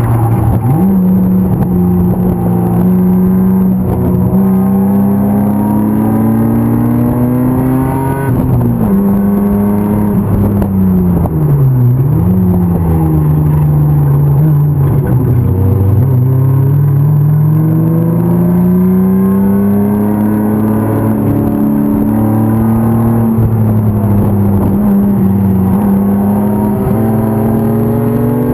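BMW E36 325's M50 straight-six engine running hard at racing pace. Its pitch climbs at first, then falls for a few seconds from about eight seconds in, dips sharply near twelve seconds and climbs back, and later holds high before rising again near the end.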